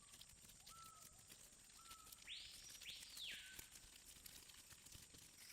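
Near silence with faint forest ambience: a few short, faint bird whistles, then two quick arching calls that rise and fall about two and a half seconds in.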